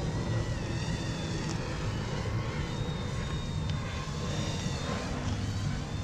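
Wind buffeting the microphone with a steady low rumble, over a faint high whine from the small electric motors of an Eachine E120 mini RC helicopter, wavering slightly in pitch as it flies.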